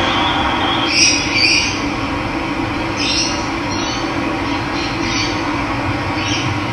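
Steady rush of running water, with birds calling over it in short chirps about a second in, again about a second and a half in, around three seconds in and near the end.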